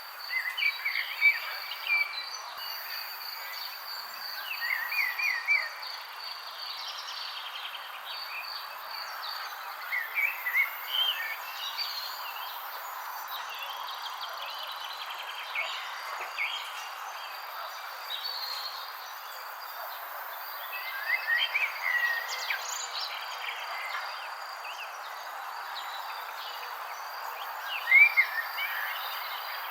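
Birds chirping in short clusters of quick rising notes every few seconds, over a steady high insect trill and an even background hiss.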